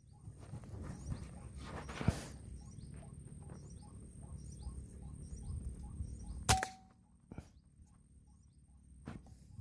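A single sharp air-rifle shot about two-thirds of the way through, the loudest sound, over a low rumbling noise. A faint chirping call repeats about twice a second.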